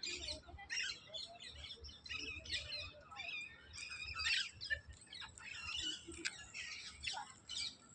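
Many birds chirping and calling over one another, a dense run of short, overlapping high chirps with no pause.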